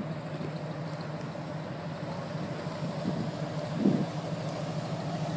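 A car engine idling steadily with an even low hum, and one brief louder sound about four seconds in.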